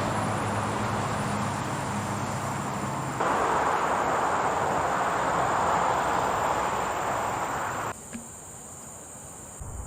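Tropical forest ambience: a steady high insect drone under a louder, even rushing noise. A low hum is present for the first three seconds. The noise changes abruptly about three seconds in and drops sharply about eight seconds in.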